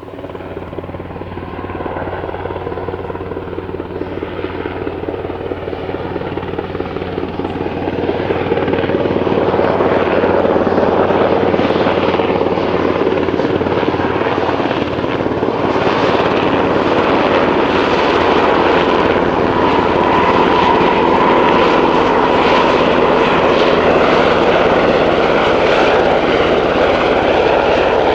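Sikorsky S-92 twin-turboshaft helicopter running, with a steady turbine tone and rotor beat. It grows louder over the first ten seconds, then holds steady and loud.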